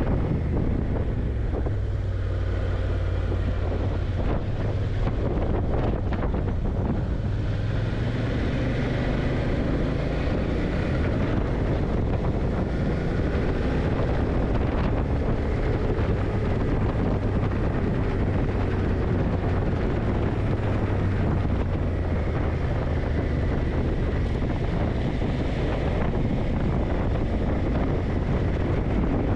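Yamaha TDM900's parallel-twin engine running under way, its note rising and falling a little with the throttle, with wind buffeting the microphone.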